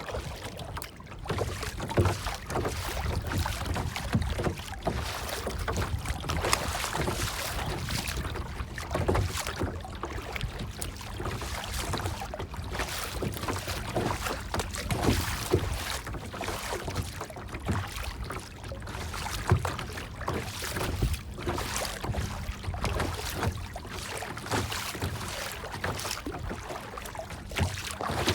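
Water splashing and lapping in an irregular, continuous wash of small surges.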